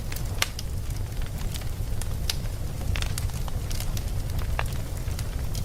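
Wood fire burning, with a steady low rumble of the flames and sharp crackles and pops from the logs at irregular intervals.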